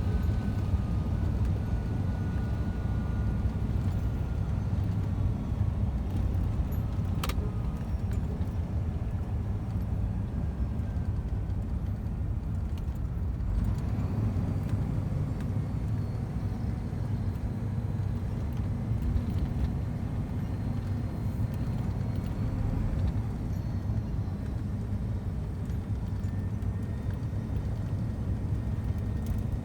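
Scania truck driving, its engine and road noise heard inside the cab as a steady low rumble, with a single sharp click about a quarter of the way in.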